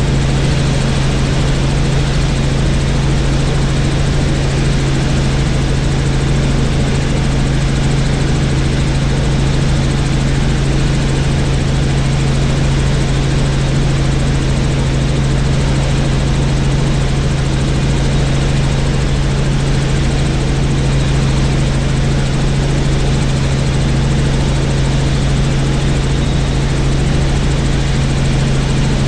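Helicopter in steady cruising flight: an unbroken, loud drone of rotor and engine with a strong low hum and a rushing noise over it, unchanging throughout.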